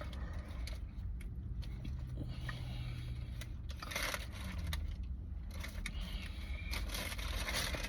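Faint rustling and light clicks of food packaging being handled, over a low steady rumble.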